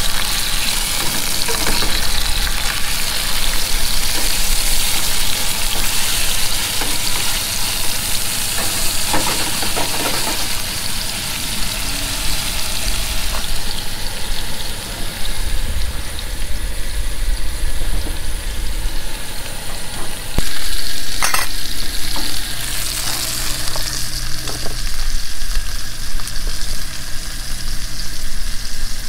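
Filet mignon steaks sizzling in hot oil in a frying pan on a camp stove, a steady frying hiss, with a few knocks of the spatula and pan.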